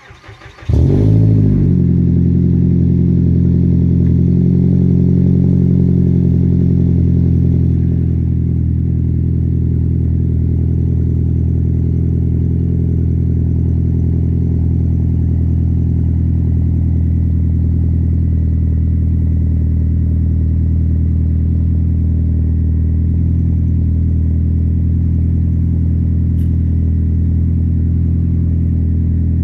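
Ford Fusion cold start: the starter cranks briefly and the engine catches under a second in, running at a high fast idle. It settles to a slightly lower, steady idle about eight seconds in.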